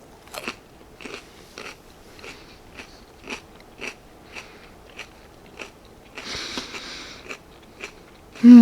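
Close-miked mouth chewing a crunchy mouthful of shrimp and mini bell pepper, with crisp crunching clicks one or two a second. There is a hiss lasting about a second around six seconds in, and a loud low hum falls in pitch near the end.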